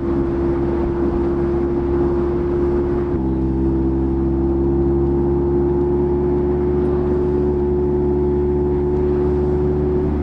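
Mazda MX-5's 1.5-litre four-cylinder engine running at a steady cruise, heard from inside the car with the soft top down. Its note shifts slightly about three seconds in, then holds almost level, creeping up a little, over wind and road noise.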